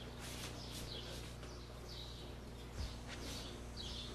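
Faint bird chirps, a few short calls a second or so apart, over a steady low hum and hiss, with one soft low thump a little before the three-second mark.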